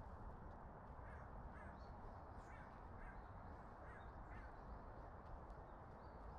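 Faint forest birds calling over a steady low hum of background noise: a run of about six short calls between one and four and a half seconds in, with a few fainter, higher chirps.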